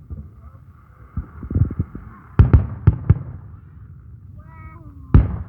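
Aerial fireworks going off: a string of sharp bangs and booms, a rapid cluster about a third of the way in, the loudest pair about halfway, and one more near the end, with a faint crackling hiss between the first reports.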